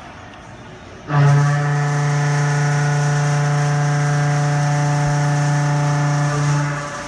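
CNC milling machine cutting steel: a loud steady pitched hum from the tool in the cut starts abruptly about a second in, holds level, and fades away near the end.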